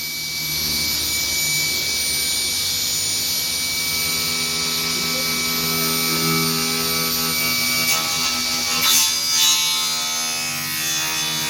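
Used woodworking machine running on a test, its motor and blade giving a steady hum and a high whine, with a few short louder rasping bursts near the end as the blade bites.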